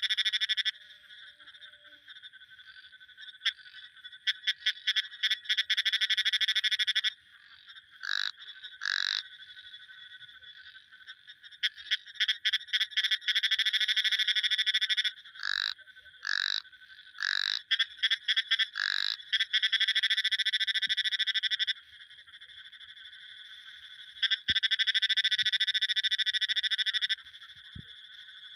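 Frogs calling: long, rapidly pulsed trills of about two to three seconds each, alternating with short single croaks, all high-pitched with no low end.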